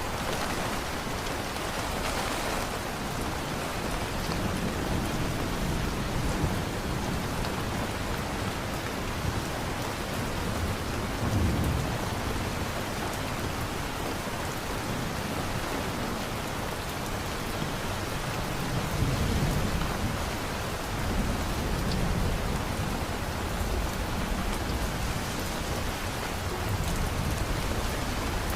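Steady heavy rain with rolling thunder rumbling low underneath, swelling about a third of the way in and again past the middle.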